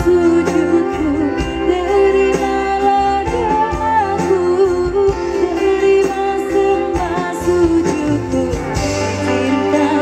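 Live concert music: a woman singing a melody over band accompaniment with guitar.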